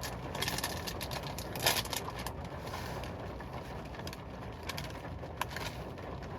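Steady rain falling, a continuous hiss with irregular sharp ticks of single drops striking.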